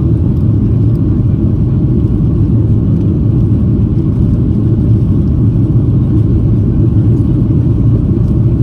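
Cabin noise inside a Boeing 737-800: a steady, loud low rumble of its CFM56 engines and rushing air, heard from a window seat behind the wing.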